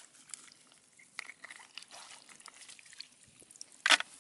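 Faint water trickling and dripping, with scattered small clicks and one sharp knock near the end.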